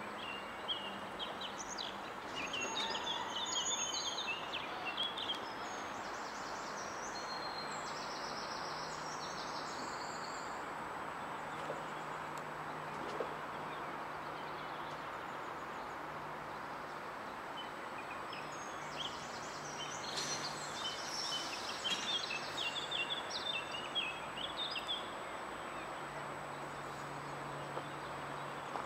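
Outdoor ambience of small birds chirping in two spells of quick high calls, about two seconds in and again past the middle, over a steady background hiss and a faint low hum.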